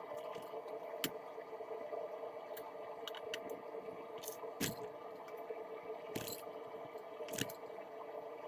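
Hot forged rebar knife blade cooling in quench water: scattered faint pops and crackles over a steady low hum.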